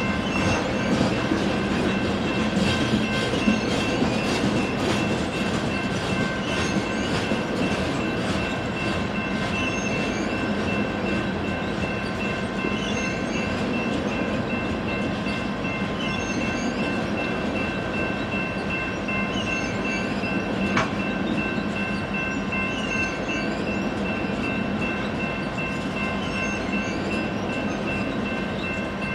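Coal hopper train rolling past: a steady rumble and clatter of wheels over the rails, with a few steady high whining tones over it and one sharp click about two-thirds of the way through.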